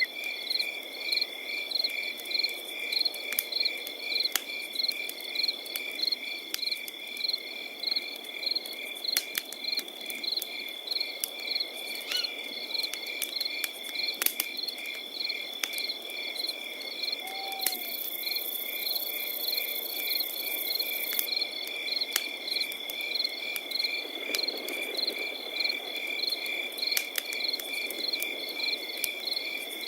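Crickets chirping in a forest at night: one steady high trill and rhythmic chirps at about two a second. Underneath, a campfire crackles with scattered sharp pops.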